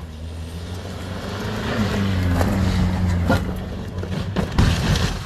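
Car engine running with road noise, its hum growing a little louder over the first two seconds, with a few short knocks in the second half.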